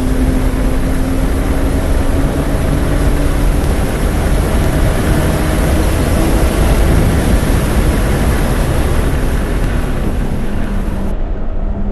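Car engine pulling hard at full throttle down a race-track straight at over 100 mph, with heavy wind and road noise, then easing off as the car slows for the next turn.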